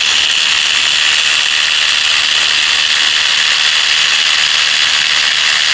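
Power ratchet running steadily, spinning out a long valve cover bolt.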